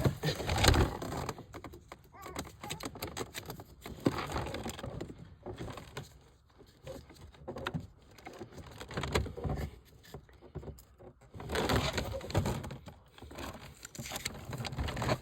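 Plumbing fittings and hand tools being handled on a water pipe: irregular clicks, taps and rattles as crimp rings and the valve are worked onto the pipe.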